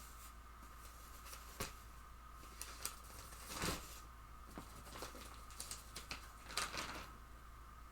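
Intermittent rustling and handling noises: a series of short brushes and crinkles, loudest about three and a half seconds in and again between six and a half and seven seconds in, over a faint steady hum.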